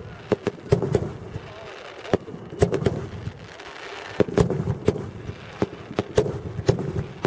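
Fireworks going off: a string of sharp bangs and cracks at irregular intervals, some in quick pairs, about a dozen in all.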